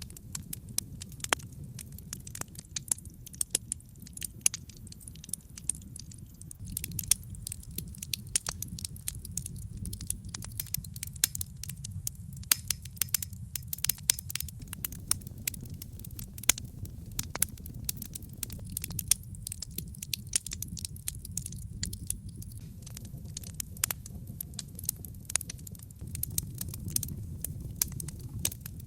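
Wood logs burning in a fireplace: steady low rumble of the flames with dense, irregular crackles and pops all through.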